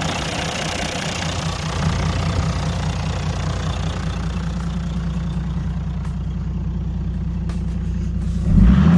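Toyota 1HD-FTE 4.2-litre turbo-diesel straight-six running at a steady idle with an even diesel rumble; it gets suddenly louder shortly before the end.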